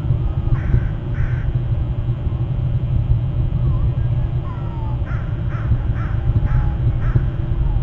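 A bird calling in short harsh caws: two about half a second in, then a run of five from about five seconds in, over a steady low rumble.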